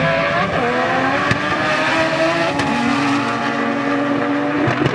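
Two import drag cars launching side by side, engines revving high and climbing in pitch, dropping back at each gear change and climbing again as they pull away. A few short sharp cracks come through the engine noise.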